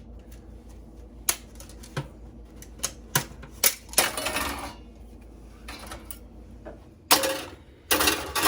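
Computer parts being handled and pried apart during dismantling: a string of sharp clicks and clinks, with a few longer scraping rattles near the middle and toward the end.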